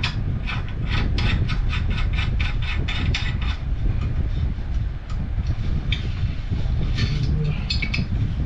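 Metal clicks of a wrench working a gas-pipe union on a furnace gas valve, coming fast at about four a second for the first few seconds, then a few scattered clicks, over a steady low rumble.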